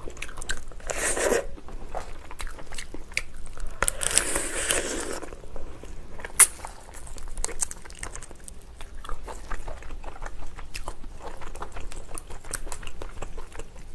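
Close-miked eating of steamed lobster: biting and chewing with many small crunches and clicks, two longer noisy stretches about a second in and about four seconds in, and one sharp crack about six seconds in.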